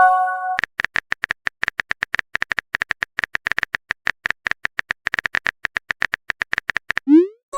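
Electronic sound effects: a short steady chime, then a fast run of short, sharp clicks for about six seconds, and a quick rising glide near the end.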